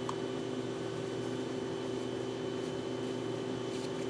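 Steady mechanical hum with a constant pitch and a faint high whine above it, unchanging throughout, with a faint tick or two.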